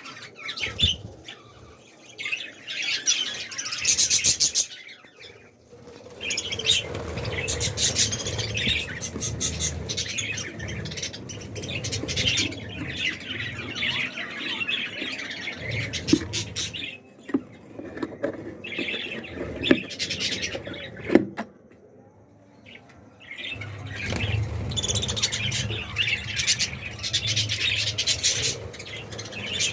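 A colony of budgerigars chattering and chirping in continuous high twittering, with a low rumble underneath and a short quieter lull about two-thirds of the way in.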